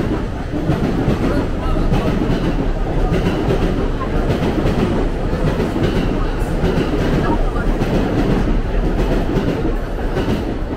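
A train passing on the rails: a loud, steady rolling noise of wheels on track.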